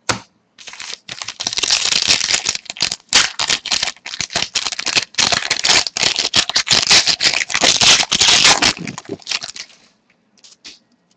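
Stack of hockey trading cards being handled and shuffled through by hand, a continuous crackly rustle of cards sliding and flicking against each other that dies away near the end.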